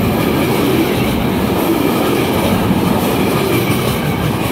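Freight train of covered sliding-wall wagons passing through the station at speed close by: a loud, steady rumble and clatter of wagon wheels on the rails.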